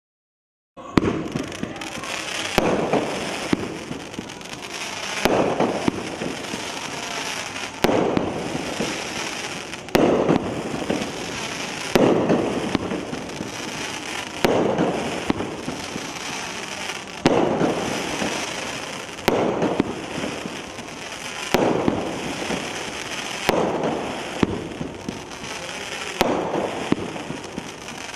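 USA Blast "Fisherman" 500 g firework cake firing shot after shot, starting about a second in. A sharp bang comes about every two to two and a half seconds, each followed by a long crackle that fades into the next shot.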